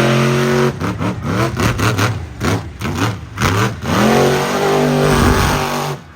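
Monster truck engine revving hard: held at high revs, then a string of quick throttle blips rising and falling, then held high again before it drops away sharply near the end.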